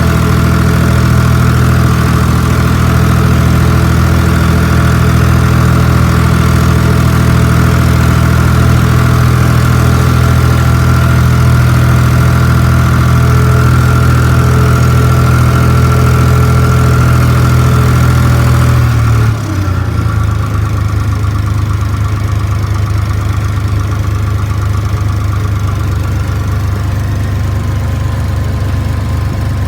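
Case IH 485 tractor's three-cylinder diesel engine running steadily, still cold after sitting for a few days. About two-thirds of the way through the sound drops suddenly to a quieter, duller note and carries on steadily.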